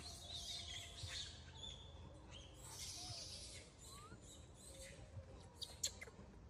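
Faint, high-pitched bird chirping and twittering, with a few soft clicks shortly before the end.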